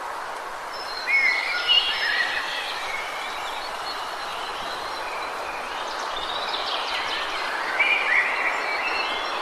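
Woodland ambience: a steady rushing hiss with songbirds chirping over it, in a cluster of quick calls about a second in and another from about six to eight seconds.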